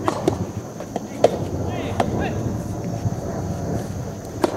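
Soft tennis rally: the soft rubber ball pops sharply off rackets and the court, four or five single hits spaced roughly a second apart, with a longer gap before the last one near the end.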